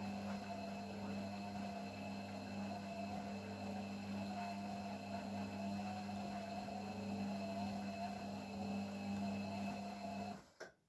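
Beko WML 51211 EL+ washing machine running with a steady electrical hum and a wavering motor tone. The sound cuts off suddenly near the end, followed by a single click.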